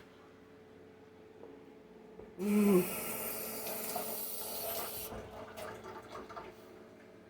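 Water tap turned on, running for about two and a half seconds, then shut off abruptly, followed by a few light knocks.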